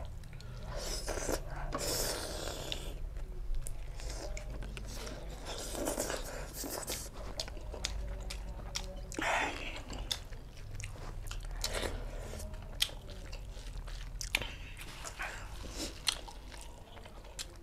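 Close-miked eating: chewing and biting, with wet mouth smacks and short crunches repeated throughout.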